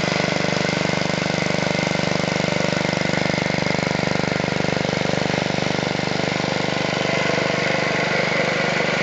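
Wisconsin AKN single-cylinder air-cooled engine running steadily at an even speed, powering a buzz saw.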